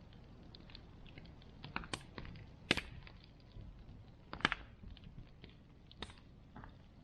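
Bonfire crackling: a steady run of small snaps and ticks from the burning wood over a low rush of flame, with a few louder pops, the sharpest just under 3 s and about 4.5 s in.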